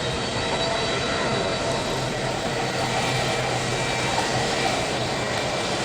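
Jet aircraft engines running with a steady rush of noise and faint high whining tones.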